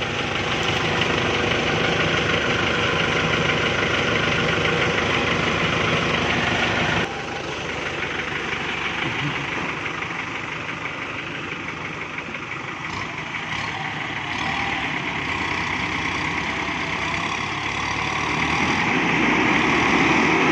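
Kubota MU5702 tractor's diesel engine running hard under heavy load while straining to pull a truck stuck in mud. About seven seconds in the sound drops abruptly and the engine keeps running at a lower level.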